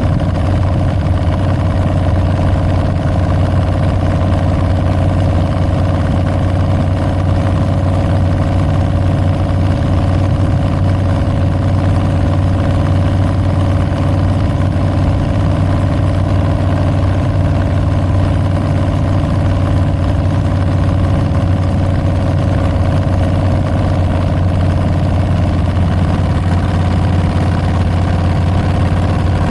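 2022 Harley-Davidson Street Bob's Milwaukee-Eight 114 V-twin running through Tabs Performance slip-on mufflers with Zombie baffles, holding a steady, even pitch with no revving.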